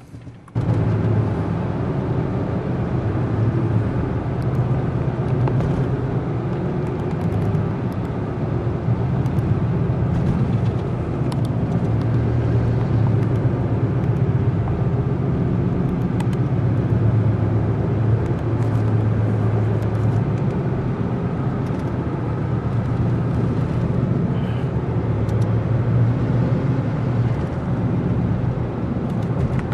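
Steady low rumble of a motor vehicle, starting suddenly about half a second in and holding even throughout.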